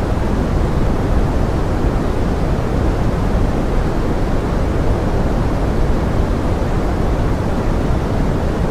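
Steady pink noise: an even, unbroken hiss weighted toward the low end, with no separate drops or other sounds standing out.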